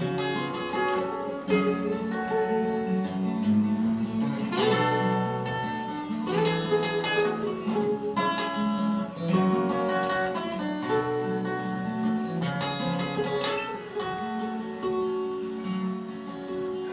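Acoustic guitar playing an instrumental passage of a romance, strummed chords and plucked melody notes.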